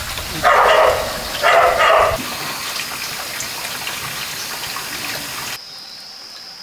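A dog barks twice, about a second apart, over a steady rush of running water. The water sound cuts off abruptly near the end.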